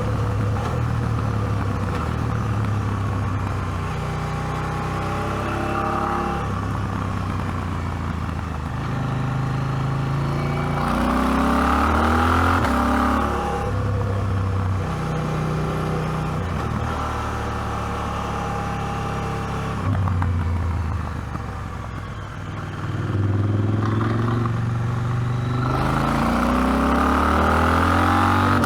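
KTM 790 Adventure's parallel-twin engine pulling hard up a mountain road, its revs rising and falling through the gears. It sweeps up hard about eleven seconds in and again near the end, and drops away briefly off the throttle a little past the middle.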